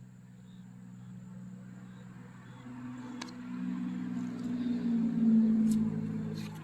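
A motor vehicle passing by, its engine and tyre sound growing louder to a peak about five seconds in and then fading away. Faint insect chirps repeat in the background, and a few sharp clicks come near the end.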